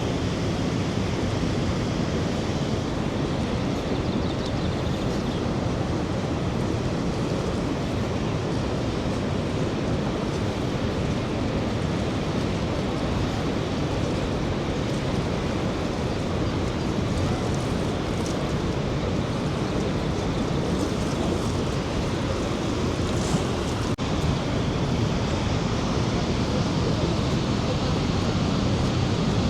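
Steady rushing of a large waterfall, the Rhine Falls, heard as a continuous deep roar of falling water.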